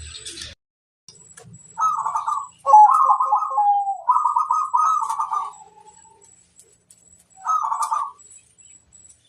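Zebra dove (perkutut) cooing: a run of rhythmic, trilled coo phrases for about four seconds, then one shorter phrase near the end.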